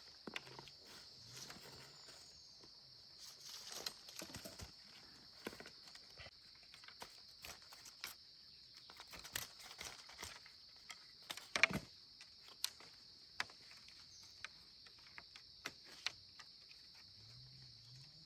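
Scattered light knocks, taps and clatters at an irregular pace, the loudest about two-thirds of the way through, over a steady high-pitched hum.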